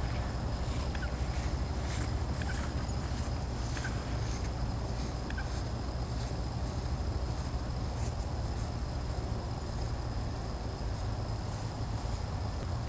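Small birds calling, with short high chirps repeating through the first half and a few brief lower calls, over a steady low rumble.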